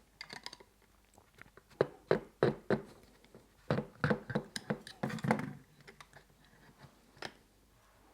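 Sharp metal clicks and knocks of hand tools working loose the timing cover of a Moki 215cc radial engine. The knocks come in two busy runs in the middle, with a single knock near the end.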